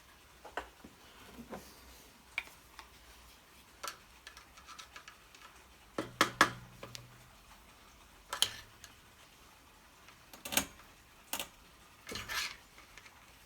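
Scattered metal clicks and clinks of hand tools and small parts being worked on an old Honda generator engine. There are a few louder knocks about halfway through and again near the end.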